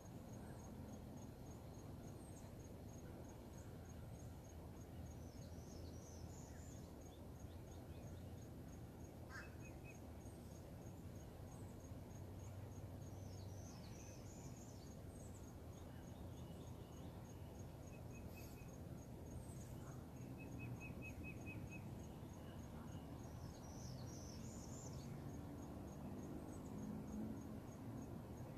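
Faint outdoor ambience: an insect keeps up a steady, evenly pulsed high chirping throughout. Scattered short bird calls and a brief trill come over a low background rumble.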